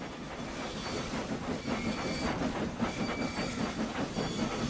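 Steam locomotives chuffing in a steady rhythm, with steam hissing.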